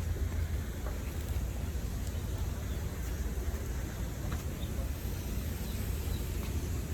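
Outdoor ambience: a steady low rumble with a few faint, short high chirps and light clicks scattered through it.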